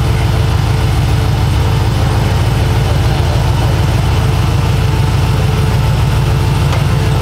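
Engine of a box-body Chevrolet Caprice idling, a deep, steady sound with a fast pulsing beat.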